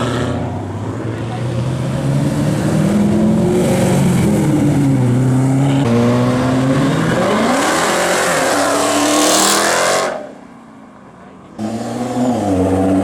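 A performance car's engine accelerating hard, its pitch climbing and dropping back through several gear changes, then a long rising pull that cuts off abruptly about ten seconds in. After a short quieter gap, another car's engine comes in loudly, revving and shifting.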